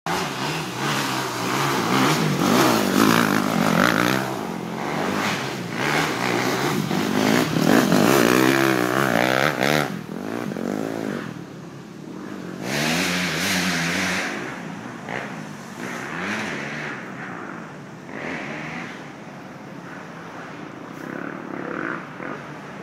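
Dirt bike engines revving hard on a steep hill climb, the pitch rising and falling again and again. The revving is loudest for the first ten seconds, then comes back quieter in shorter bursts.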